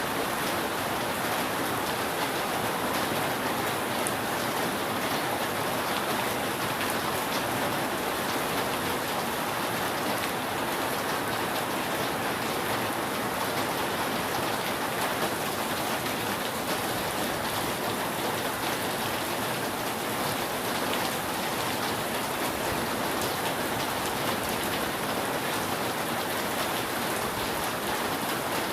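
Steady rain falling on a roof: an even hiss with scattered drop hits.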